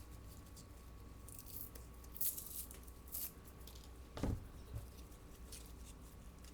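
Quiet rustling and crinkling of paper flowers and trim being handled and placed, in a few short bursts, with a soft knock about four seconds in.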